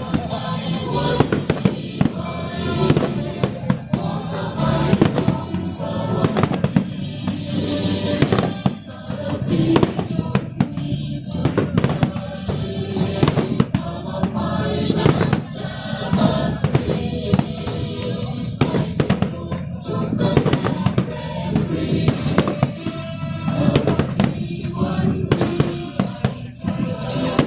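New Year fireworks display going off in repeated, irregular bangs over continuous loud music.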